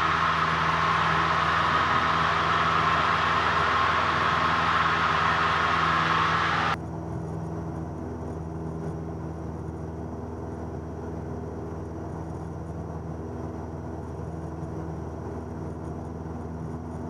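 Cabin drone of a Cessna 172N's four-cylinder Lycoming engine and propeller, running steadily while climbing out after takeoff. About seven seconds in, the loud rushing hiss over the engine note drops off abruptly, and the drone goes on quieter and duller.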